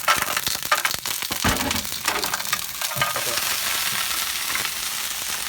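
Garlic frying in olive oil in a pan, a steady sizzle with stirring. A clatter of sharp knocks comes in the first two seconds.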